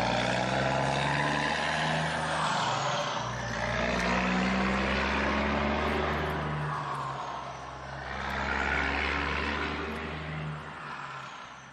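Motor vehicle engine noise, running steadily with a few swells and dips in loudness, fading out near the end.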